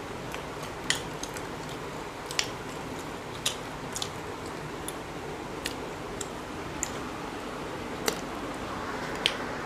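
People eating rice and chicken curry by hand: chewing with short, sharp mouth clicks and smacks about once a second over a steady hiss.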